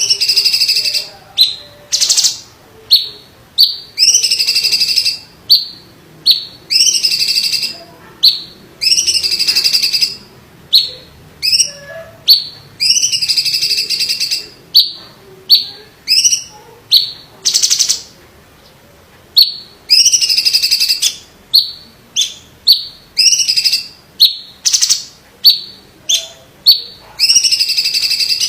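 Cucak ijo (green leafbird) singing loudly: a fast series of harsh, buzzy call phrases, about one to two a second, some drawn out to a second or so, with short pauses between them.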